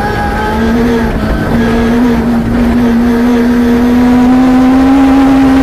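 Peugeot 306 rally car's engine heard from inside the cabin, held at high revs and slowly climbing, with a brief dip about a second in, over rumbling road noise from the gravel stage.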